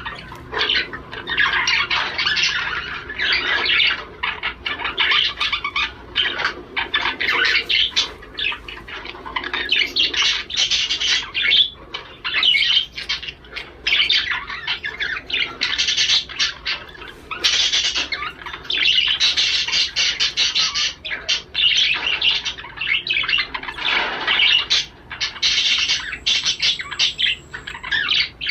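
Male budgerigar warbling and chattering continuously in a fast run of short chirps and squawks: the courtship warble a male uses to stir a mate into breeding.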